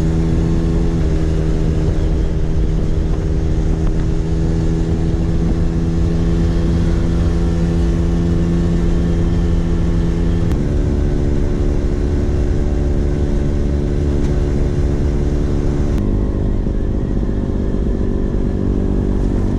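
Vespa PX 150's single-cylinder two-stroke engine running through an aftermarket DRC Victory Racing exhaust while under way. The note holds a steady pitch, drops a step about ten seconds in, and drops again about sixteen seconds in.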